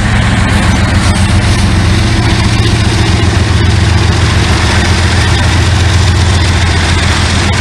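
Diesel freight locomotive engine running steadily at close range, a loud, even low drone.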